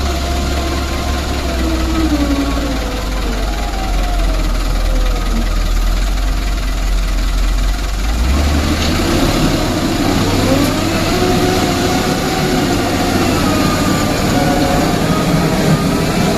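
Diesel engine of a Toyota Dyna dump truck running steadily; about eight seconds in its note shifts up and grows fuller, as if revving under load.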